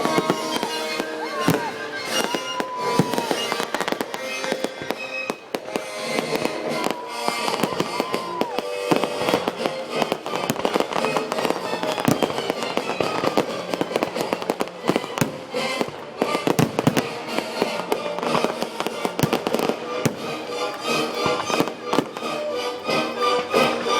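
Fireworks display finale: a dense run of bangs and crackling bursts over loud music, with a few whistling glides in the first few seconds.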